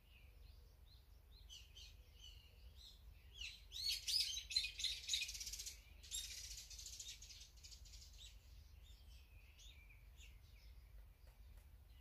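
Wild birds chirping and calling, with a loud burst of rapid, harsh chattering calls a few seconds in that tails off after about three seconds, then scattered chirps again.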